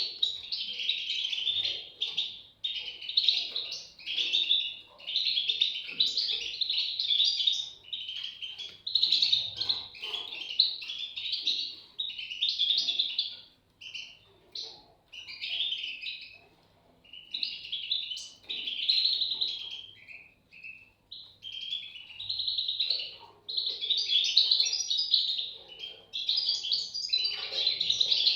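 European goldfinch chicks calling: rapid, high twittering in bouts of one to two seconds with short breaks, thinning out with a few quieter gaps around the middle.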